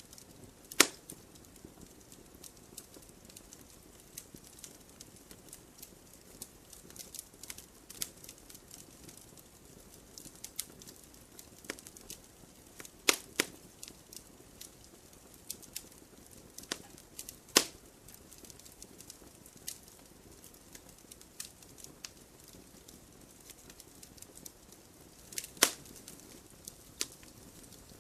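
Campfire crackling, with a soft hiss under scattered small snaps and a few louder sharp pops from the burning wood.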